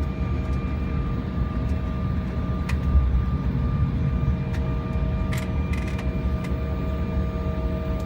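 Steady cabin noise of a jet airliner on the ground before takeoff: a low rumble from the engines and cabin air, with several steady whining tones. A few faint light clicks come near the middle.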